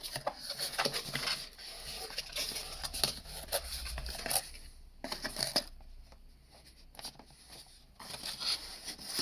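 Packaging being opened and handled by hand: rustling and scraping with scattered clicks, busier in the first half and sparser near the end.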